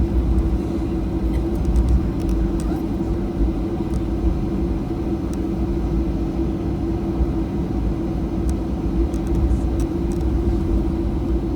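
Cabin noise of a Boeing 737-800 taxiing after landing: a steady low rumble from its CFM56 engines at idle, with a constant hum and a few faint ticks.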